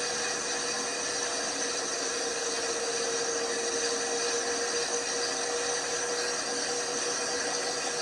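LG washing machine running, a steady whine over an even whooshing noise.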